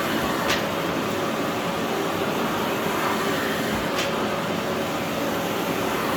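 Philips PowerPro FC9331/09 bagless vacuum cleaner with a 900 W motor running steadily, a smooth even whoosh, with two brief clicks, one about half a second in and one about four seconds in.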